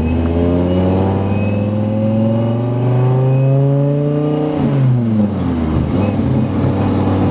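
A sports car's engine pulling hard under acceleration, its pitch climbing steadily for about four and a half seconds, then dropping sharply and settling into a steady run.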